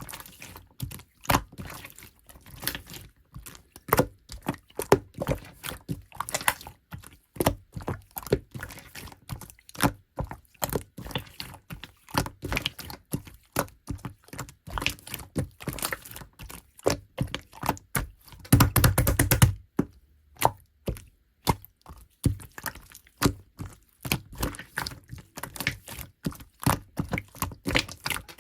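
Clear slime being pressed and squeezed by hand: an irregular run of sharp pops and clicks, several a second, with one longer, louder squelch about two-thirds of the way in.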